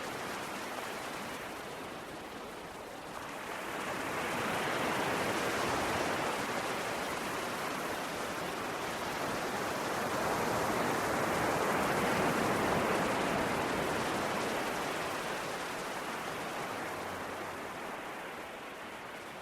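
Sea waves washing onto the shore, a steady rush of surf that swells twice and eases off again.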